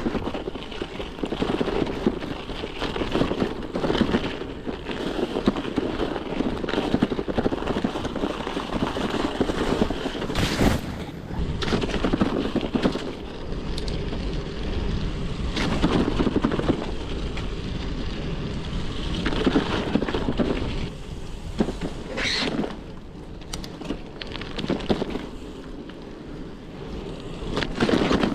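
Wind buffeting a cyclist's camera microphone with a steady rumble of bicycle tyres on frozen, rutted snow, rising and falling in gusts.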